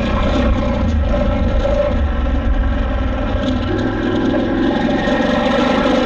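KTM 890 Adventure R's parallel-twin engine running as the bike rides along, its note easing slightly and then stepping up again about two-thirds of the way through as throttle is added.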